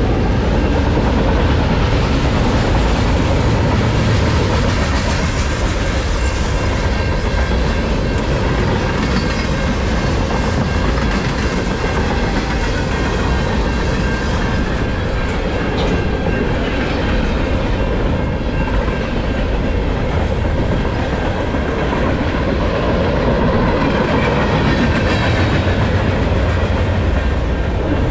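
Freight train cars (autoracks and centerbeam flatcars) rolling steadily past at close range: a loud, continuous rumble of steel wheels on the rails with clickety-clack over the joints.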